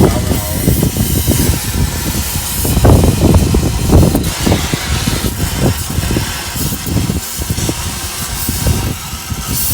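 Car engine and exhaust running with a loud, uneven low rumble that swells a few times, under a steady hiss.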